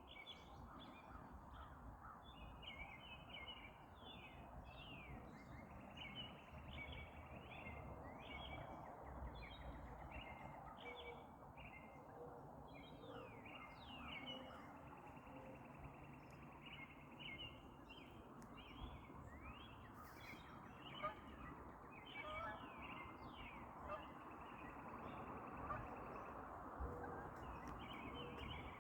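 Many small birds chirping continuously, in quick overlapping calls, over a faint steady background hiss.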